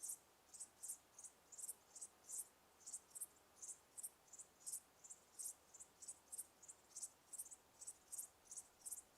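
Insects chirping: short, high chirps repeating about three times a second in an even rhythm over faint background hiss.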